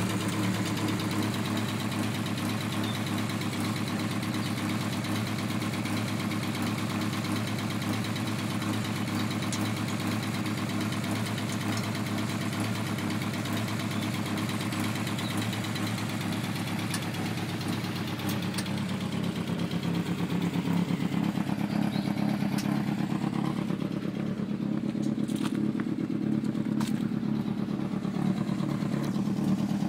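Mk2 VW Golf's draw-through turbocharged four-cylinder engine running steadily through a tacked-up exhaust that is leaking badly, a jumble of exhaust blows. About two-thirds of the way through the note changes and gets a little louder.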